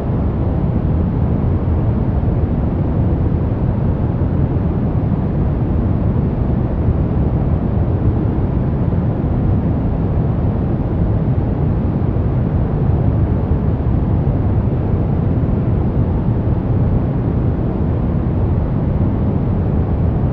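Steady generated noise for sleep and focus, sold as white noise but weighted toward the low end, so it sounds like a deep, even rush rather than a bright hiss. It holds one constant level throughout.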